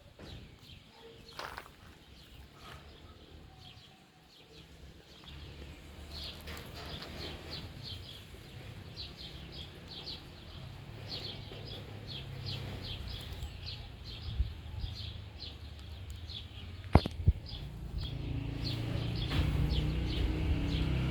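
A small bird chirping over and over, short high calls about twice a second. Two sharp clicks sound near the end, and a low rumble builds under the chirps.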